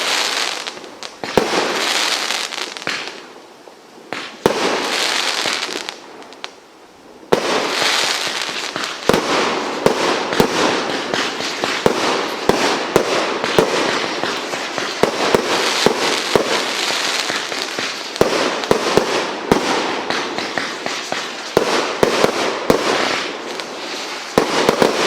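Dr. Jekyll multi-shot firework cake firing: separate shots, each with a crackling tail, then from about nine seconds in a dense, continuous run of sharp reports and crackling.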